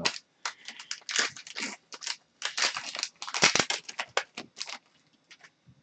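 A trading card pack's wrapper crinkling and tearing as it is opened, a quick run of rustles that stops about a second before the end.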